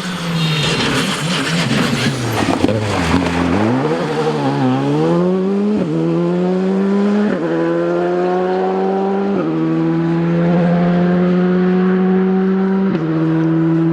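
Rally car slowing for a corner, engine note falling with crackling over the first few seconds. It then accelerates away, the pitch climbing and dropping at each of four upshifts.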